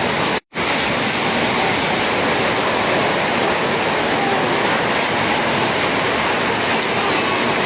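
Rain pouring down: a loud, steady rush of water, broken once by a brief dropout about half a second in.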